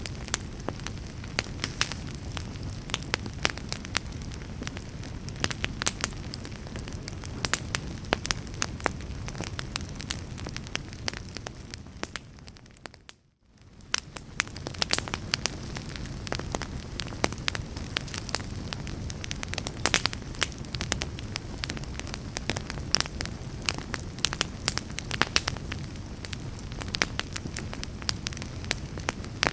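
Wood log fire burning, with frequent sharp crackles and pops over a low, steady rush of flame. About thirteen seconds in the sound fades almost to silence for a moment, then comes back.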